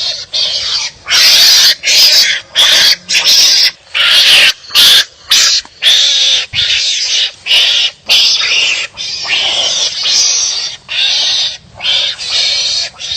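Animals barking harshly at each other in a fast series of rasping, screechy calls, about two a second with short gaps between.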